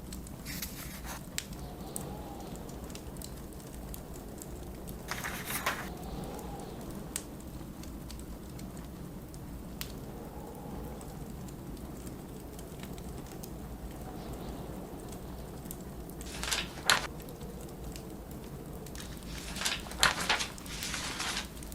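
Book pages turning with a papery rustle, several times: about half a second in, about five seconds in, twice around seventeen seconds, and a longer series near the end; these are the loudest sounds. Underneath, a fireplace crackles with small scattered pops over a steady low blizzard wind with a faint slow howl.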